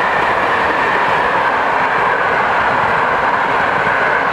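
Passenger train coaches rolling past on the track: a loud, steady noise of wheels running on the rails.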